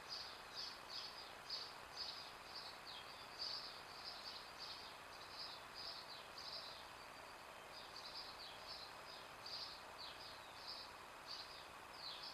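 Songbirds chirping: a steady string of short, high chirps, a few each second, over a faint steady hiss.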